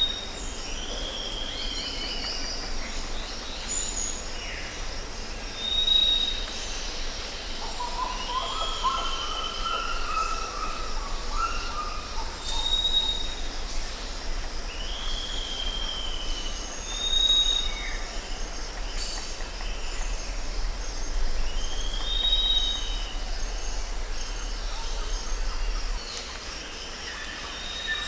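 Jungle ambience: several birds calling over a steady high insect drone. One bird repeats a short high whistle every few seconds, another gives falling slurred calls, and a lower warbling phrase comes in about a third of the way through. A low rumble underneath drops away near the end.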